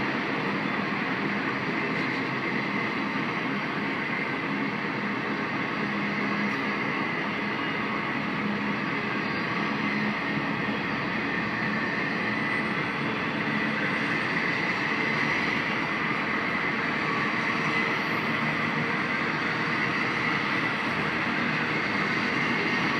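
Cars of an intermodal freight train (stack cars, trailers on flats, empty flatcars) rolling past, a steady noise of wheels on rail.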